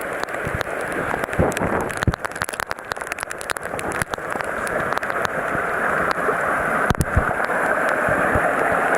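Floodwater rushing steadily in a fast torrent. A quick run of sharp taps and knocks sounds from about one and a half to four seconds in, with a couple more near seven seconds.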